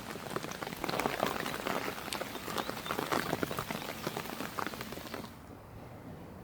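Rain falling on a surface, a dense run of sharp drop hits, which drops to a quieter, duller hiss about five seconds in.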